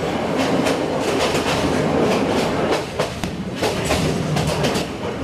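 Yangon Circular Railway train running, heard from inside a carriage: a steady clatter of wheels over the rails with quick knocks and rattles, dipping briefly about three seconds in.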